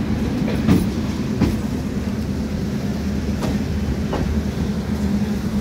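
Indian Railways suburban local train rolling past the platform: a steady low rumble of the coaches, with a few sharp clacks of the wheels over rail joints.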